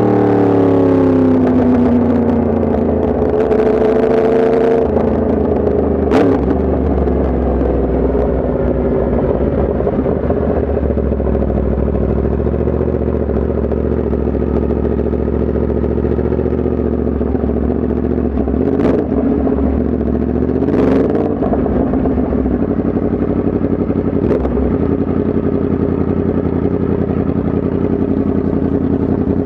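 Yamaha MT-10 SP's crossplane inline-four engine falling in pitch as the bike slows over the first couple of seconds, then running steadily at low revs. A few sharp clicks and brief small rises in revs come through along the way.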